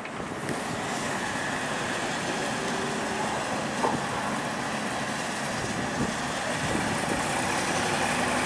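Tugboat diesel engine running steadily, with two short knocks, one about four seconds in and another about six seconds in.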